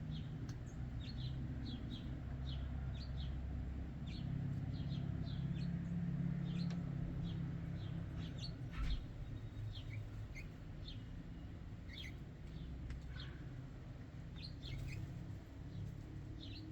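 Small birds chirping at a backyard feeder: many short, high chirps repeating throughout, over a steady low rumble. A single brief knock comes about nine seconds in.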